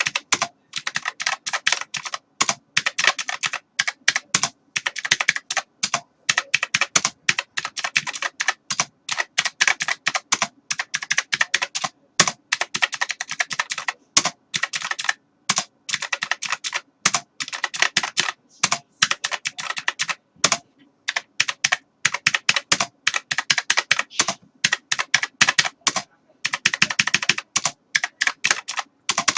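Computer keyboard being typed on steadily, with rapid runs of key clicks broken by brief pauses.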